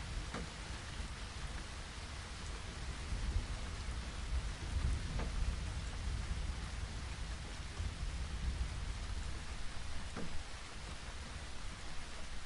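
Steady rain falling, with a low rumble of distant thunder underneath that swells about halfway through.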